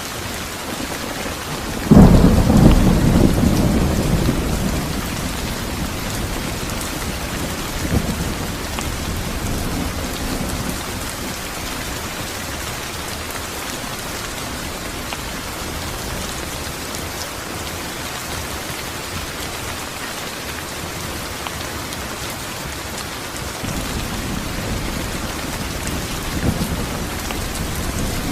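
Steady rain with a loud clap of thunder about two seconds in that rumbles away over several seconds. A short knock of thunder follows, then a softer rumble near the end.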